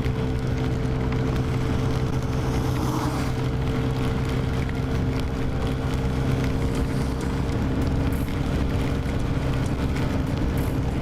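Honda Ruckus 49cc four-stroke scooter engine running at a steady cruising speed, with a constant hiss of wind and wet road underneath.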